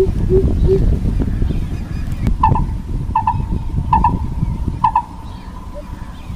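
Lesser coucal calling: a run of low hoots about three a second, then four louder, higher notes spaced under a second apart. A low rumbling noise runs underneath and drops away about five seconds in.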